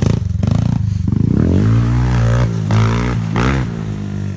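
Thumpstar 110 pit bike's small single-cylinder four-stroke engine chugging at low revs, then revved up about a second in, its pitch rising and wavering before dropping back near the end.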